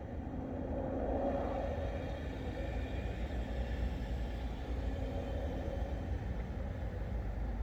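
Low rumble of distant thunder, swelling slightly about a second in and then rolling on steadily.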